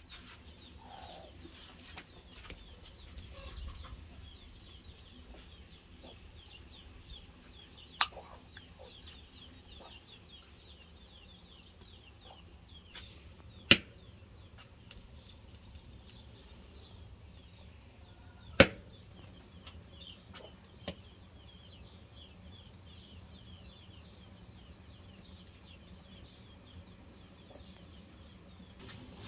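Birds chirping continuously, many short high calls overlapping, with four sharp knocks spread through.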